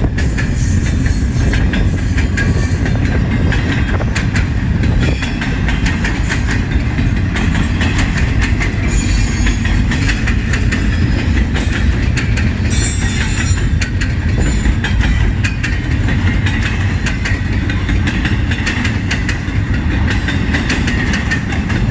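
CN freight train's cars rolling past at close range: a steady rumble with a continuous clatter of wheels over rail joints, and now and then a brief high squeal from the wheels.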